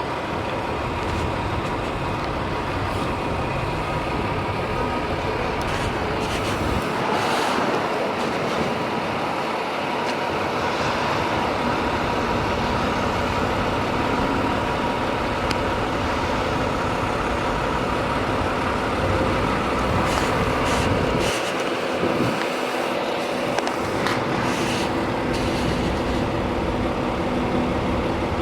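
Steady motor-vehicle noise, engine and road sound with a constant hum, typical of trucks and traffic.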